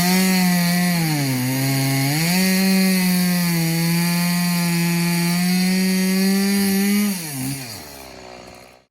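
Stihl MS 180 two-stroke chainsaw at full throttle cutting through wood. The engine pitch dips under load a little over a second in, recovers, then falls away as the throttle is released near the end.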